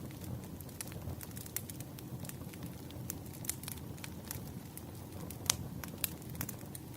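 Firewood burning with irregular crackles and pops over a low steady rumble of flame; one pop about five and a half seconds in is the loudest.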